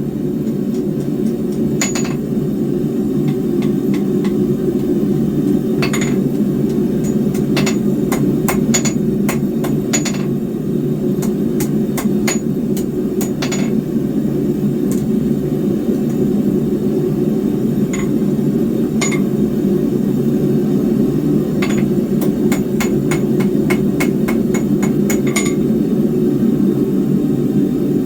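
Hand hammer striking a small square steel bar on an anvil while forging, in irregular runs of sharp blows, some with a short high ring, over a steady low roar.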